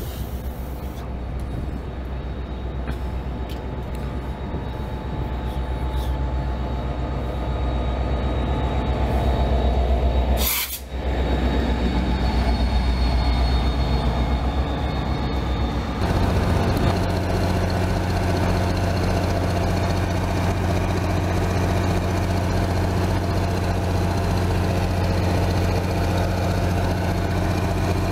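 A commuter train passing close by: a steady, low locomotive drone with rail noise that grows louder over the first ten seconds. It breaks off abruptly about ten seconds in, and the drone changes again partway through.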